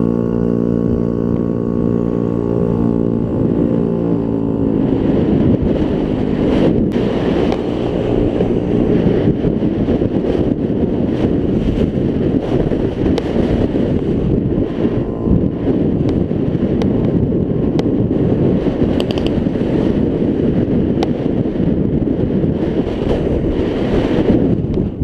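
Scooter engine running at a steady pitch, then from about four seconds in a heavy rush of wind over the microphone as the scooter rides along, with the engine buried beneath it.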